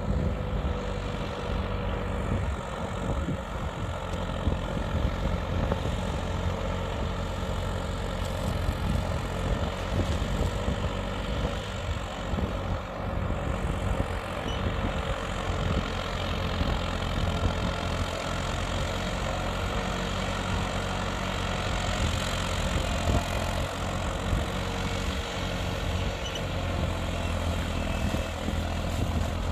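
Tractor engine running steadily at a constant speed, a continuous low drone with no change in pitch.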